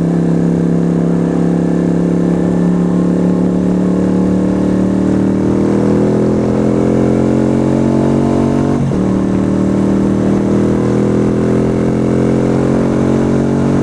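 Yamaha YBR125's single-cylinder four-stroke engine under way, holding steady at first, then revs climbing from about four seconds in, dropping sharply with an upshift about nine seconds in, and climbing again. A steady rush of wind and road noise runs underneath.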